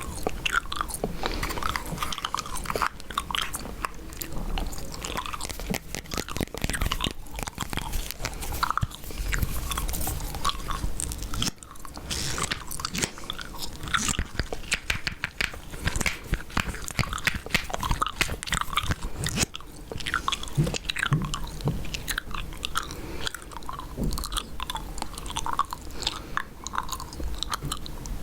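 Chewing gum close to the microphone: a continuous run of wet mouth smacks and clicks, several a second.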